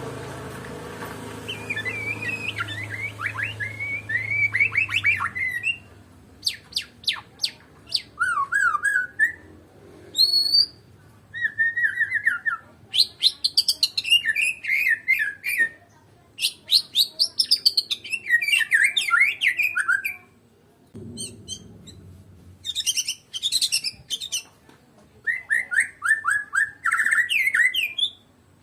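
White-rumped shama (murai batu) singing in a run of varied phrases: gliding whistles, rapid trills and sharp chirps, broken by short pauses. A low hum sits under the first few seconds.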